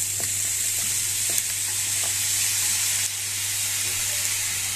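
Sliced mahua fruit frying in oil in a steel kadhai: a steady sizzle, with a few light scrapes of a metal spatula against the pan.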